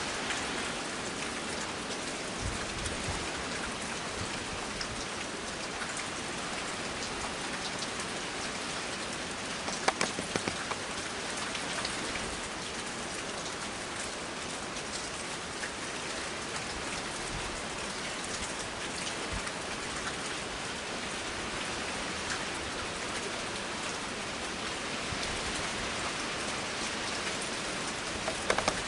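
Steady rain falling during a storm, with a short cluster of sharp knocks about ten seconds in.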